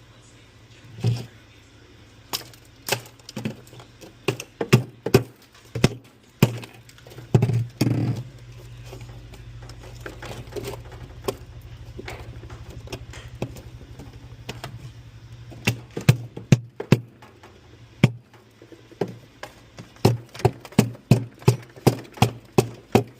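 Irregular sharp clicks and knocks, like hard parts being handled and set down, over a steady low hum that gets louder about eight seconds in.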